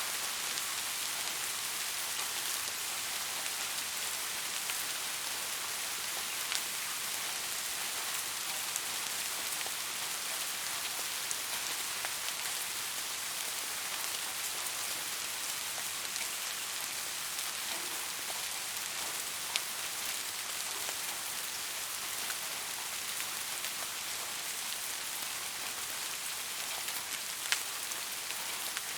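Steady rain falling, an even hiss with a few louder single drop ticks now and then.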